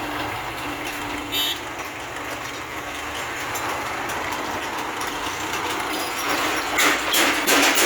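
Power hammer running with a steady mechanical hum, then about six seconds in it starts striking, a quick run of sharp blows.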